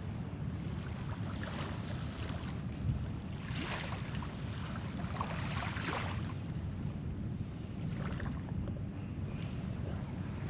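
Wind rumbling on the microphone, with small waves washing onto the sand every few seconds.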